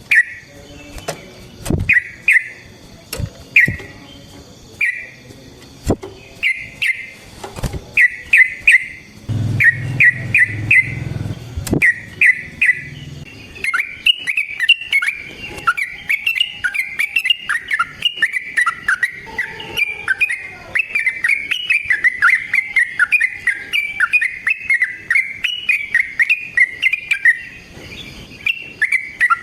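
Yellow-vented bulbul (trucukan) calling in short bubbly phrases about once a second. About halfway through, this turns into a long unbroken run of rapid chattering notes. Several sharp clicks and a brief low rumble sound in the first half.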